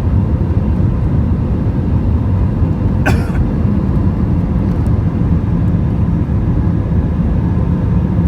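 Steady low rumble of engine and airflow noise inside an Airbus A320's passenger cabin in flight, with a brief sharp sound about three seconds in.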